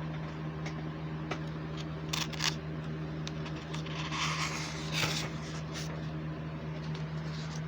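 Woodpecker pecking at wood: a dozen or so scattered, irregular taps, not a fast drumroll, over a steady low hum.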